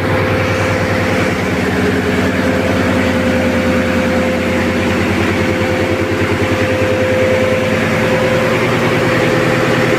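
Diesel machinery in a ship's engine room running steadily: a loud, even engine drone with a constant tone held throughout.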